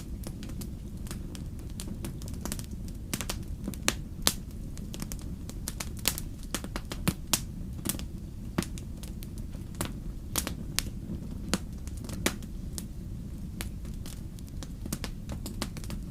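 Wood campfire crackling, with many sharp irregular pops and snaps, some louder than others, over a steady low rumble.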